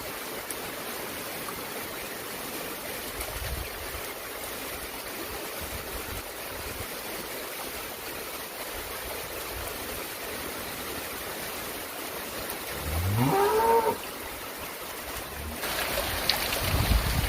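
Heavy rain falling steadily. About thirteen seconds in, a single animal call rises in pitch for about a second, and near the end the rain grows louder.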